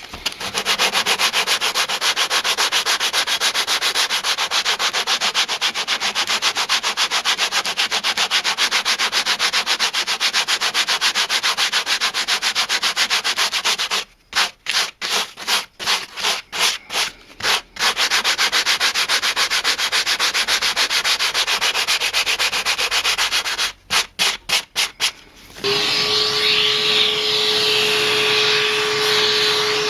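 80-grit sandpaper rubbed by hand in quick, even strokes over rough, cat-torn leather, smoothing it off. It breaks off twice into a few separate strokes. A few seconds before the end, a steady humming whine takes over.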